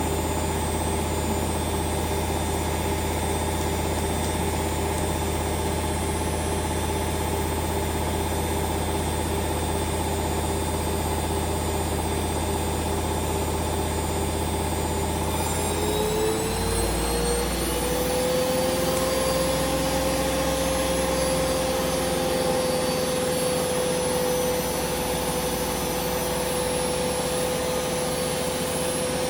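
Hoover Vision Dynamic washing machine on a spin cycle, its motor and drum whining steadily. About halfway through, the whine rises in pitch and then holds, as the spin speeds up.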